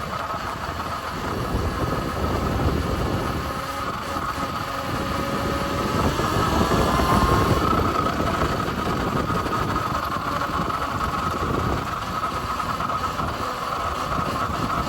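Arctic Leopard XF electric pit bike being ridden: a steady motor whine that rises a little in pitch midway and then settles, with chain noise, under a heavy rumble of wind on the microphone.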